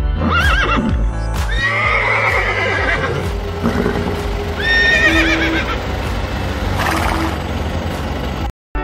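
A horse whinnying about four times, each call quavering in pitch, over background music.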